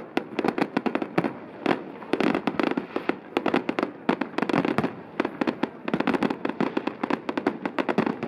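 Fireworks display firing a dense barrage: sharp bangs and crackles come many times a second without a break.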